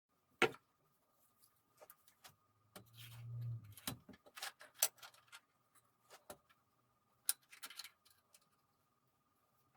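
Scattered sharp clicks and light knocks, as of objects being handled and set down, with a brief low hum about three seconds in.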